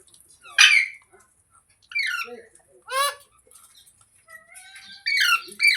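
Green parrot giving a series of short, harsh squawking calls: about five, the loudest about half a second in and two close together near the end.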